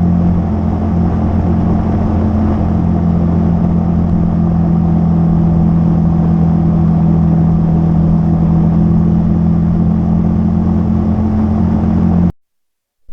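Hero XPulse motorcycle's single-cylinder engine running at a steady cruise while riding. It cuts off abruptly about twelve seconds in.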